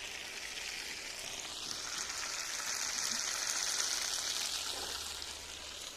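Chicken frying in a pan: a steady sizzle that swells toward the middle and eases off near the end.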